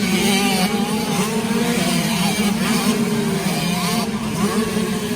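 Several motocross bikes racing together, their engines revving up and down over a steady low drone.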